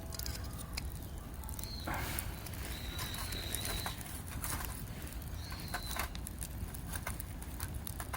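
Wood fire crackling, with frequent sharp pops over a low wind rumble. A high, level whistled note lasting about a second recurs several times.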